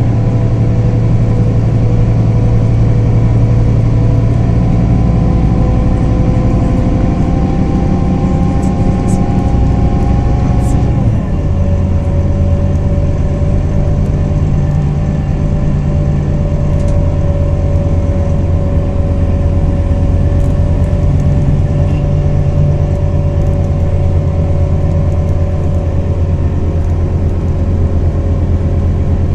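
A 320 hp Scania diesel engine in a Scania Irizar i4 bus, heard on board, pulling with its pitch slowly rising. About eleven seconds in the pitch drops as the ZF six-speed automatic gearbox shifts up, then the engine runs on fairly steadily.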